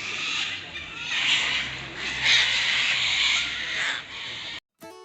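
Flock of sulphur-crested cockatoos screeching harshly in overlapping calls, loudest about a second and a half, two and a half and three and a half seconds in. It cuts off abruptly near the end, and acoustic guitar music begins.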